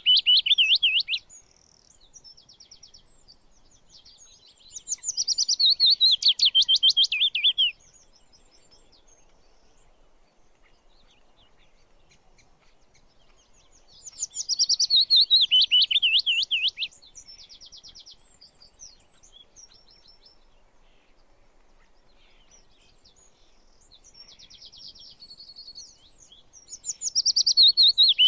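A songbird singing: loud phrases about three seconds long, each starting high and running down in pitch through a rapid trill. The phrases come four times, at the start, about five seconds in, about fourteen seconds in and near the end, with soft chirps and a quieter trill in the gaps.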